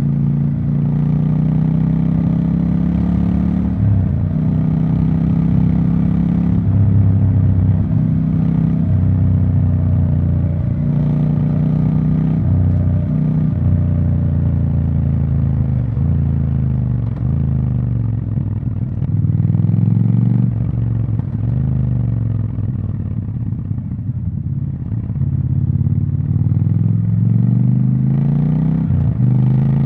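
Triumph Scrambler 1200 XE's 1200 cc parallel-twin engine running through its exhaust, its engine speed rising and falling again and again.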